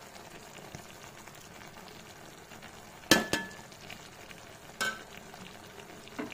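Chicken in tomato-cashew gravy frying in the pan with a steady low sizzle as spices are added, broken by sharp metallic clinks with a brief ring: a pair about three seconds in, another near five seconds and one at the end.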